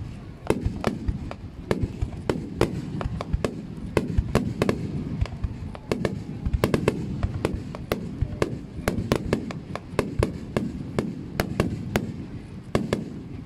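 Aerial fireworks shells bursting in rapid succession: a string of sharp bangs, about two or three a second, over a continuous low rumbling boom.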